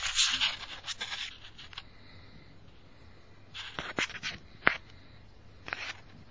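Scraping and rubbing for the first second or so, then a few scattered sharp clicks and knocks: handling noise.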